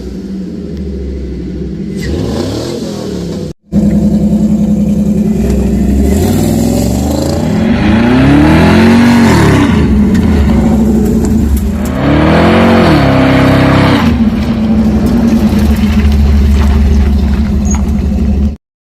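1966 Chevy pickup's engine running at idle, then revved twice, the revs rising and falling back about eight and twelve seconds in before it settles to idle again.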